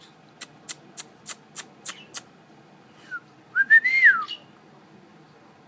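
Pet parrot calling: seven short, sharp chirps in quick succession, about three a second, then a brief whistled note that rises and falls, about four seconds in.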